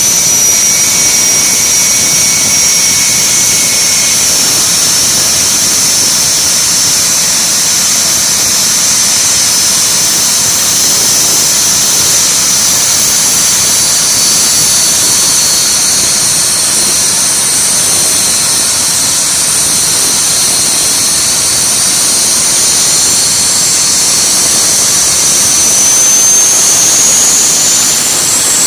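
Triple-turbine jet truck's jet engines running with a loud, steady rush and several high-pitched whines that sink slowly in pitch, then climb again near the end as the turbines spool up.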